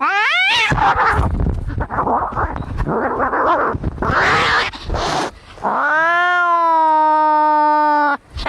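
Angry cats fighting: a rising yowl, then several seconds of harsh, noisy screeching and hissing. It ends in one long, steady yowl that cuts off shortly before the end.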